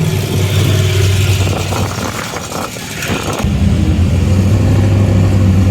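Off-road vehicle engine running and revving with a steady low drone. The drone drops back and roughens in the middle, then comes back louder and steady about three and a half seconds in.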